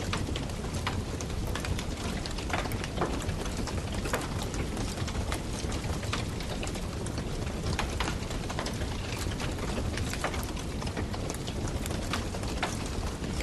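Wood campfire crackling, with frequent irregular pops and snaps over a steady low rumble.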